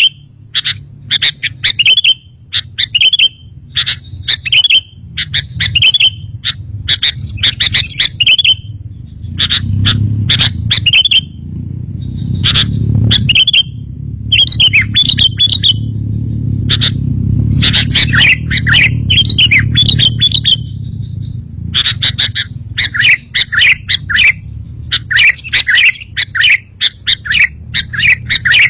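Sooty-headed bulbul (kutilang) song: quick, repeated chirpy phrases, the kind of recording played to lure bulbuls and to get caged ones singing. A low rumble runs underneath, heaviest in the middle.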